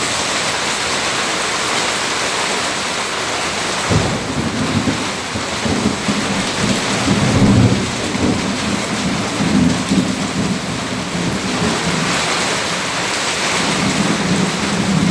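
Heavy rain pouring steadily, with a long roll of thunder that starts about four seconds in, is loudest around the middle, and rumbles again near the end.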